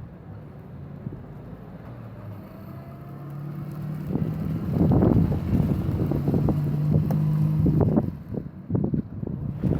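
Car engine running, rising in pitch about three seconds in and growing louder from about four seconds, then dropping back near the end. Wind buffets the microphone.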